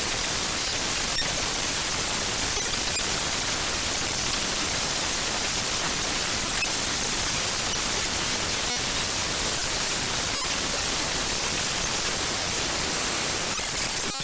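Raw bytes of the chrome.exe program file played back as audio: a steady, loud hiss of static, brightest in the treble, with a few faint scattered ticks.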